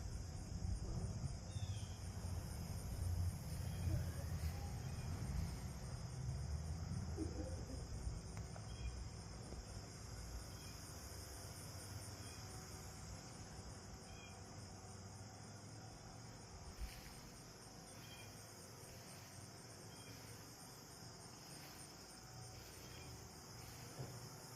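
Insects chirring steadily in a high, even drone with a fine rapid pulse. A low rumble sits under it for roughly the first ten seconds and then fades away.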